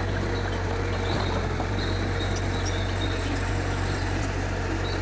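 Mitsubishi G2 bulldozer's diesel engine running at a steady, even pace with a low hum.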